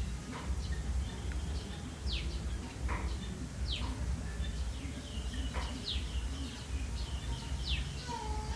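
Birds chirping: short, high calls that sweep quickly downward, repeated irregularly every half second or so, over a steady low rumble.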